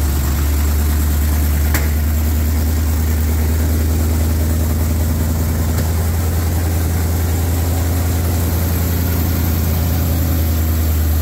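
Whipple-supercharged Gen 2 Coyote 5.0 L V8, freshly swapped into a Gen 1 Ford F-150 Lightning, idling steadily on its first start. The idle stays even, with a deep, unchanging hum.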